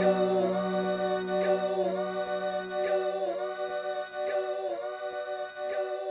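Music: a held choir-like vocal chord, sustained with a slight dip in pitch about every second and a half.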